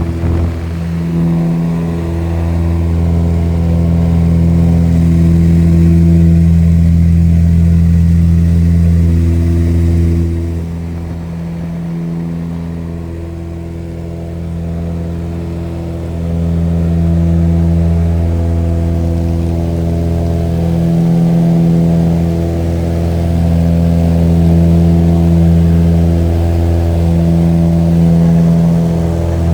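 A steady engine drone at an unchanging pitch, its loudness swelling and fading every few seconds.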